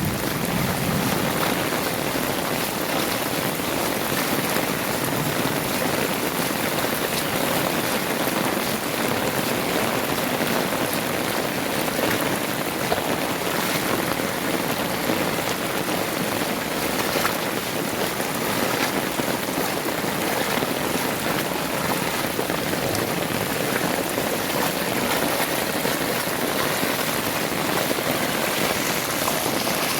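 Heavy rain falling steadily, an even hiss of countless drops hitting the ground and surfaces.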